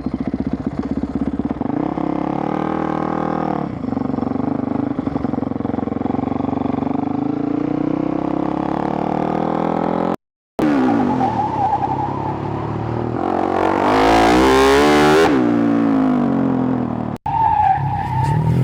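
Flat-track race motorcycle engine running, its pitch rising and falling with the throttle. Near the middle it revs up sharply and louder, and the sound cuts out abruptly twice.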